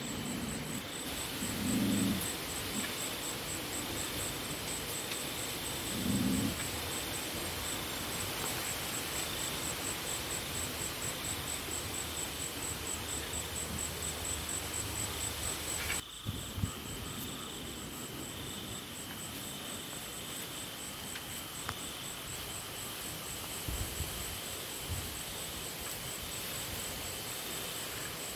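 Night-time field ambience: insects chirring steadily in a fast pulsing trill, with a slower pulsing note beneath, over wind rushing on the microphone. A few short low sounds come in the first several seconds, and the sound changes abruptly about halfway through.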